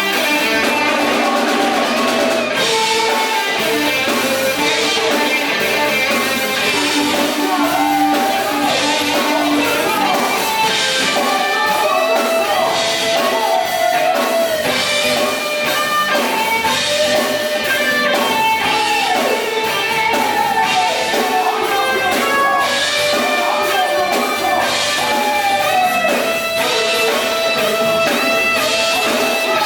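Gospel band playing an instrumental passage, with a guitar carrying the melody in bending notes over drums.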